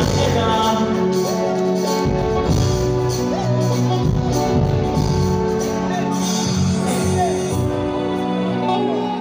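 Band music with a voice singing over a steady bass line.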